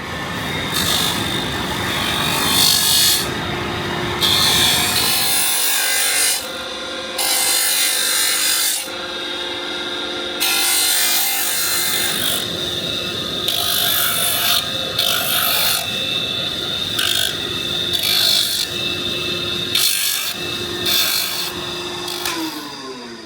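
Electric sander running, with a workpiece pressed against it in repeated passes of gritty scraping; the motor winds down near the end.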